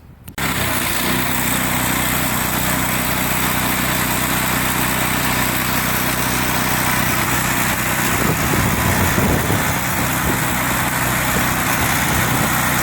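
Small gasoline engine of a Hudson Patriot bandsaw mill running steadily, with a rougher stretch about eight seconds in.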